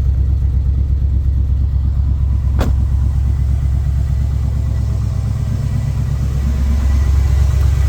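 2000 GMC 2500's 5.7-litre V8 idling steadily through true dual exhaust shortly after a cold start at 18 degrees. A single sharp click sounds about two and a half seconds in.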